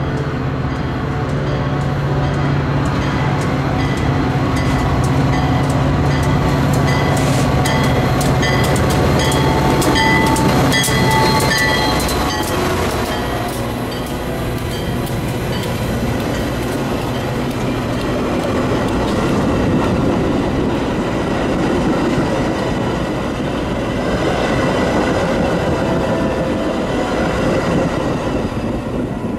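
A Metra diesel-hauled commuter train passing close by. First the locomotive's engine gives a steady low hum. Then the bilevel passenger cars roll past, their wheels clicking rapidly over the rail joints, leaving a rumble of cars on the rails.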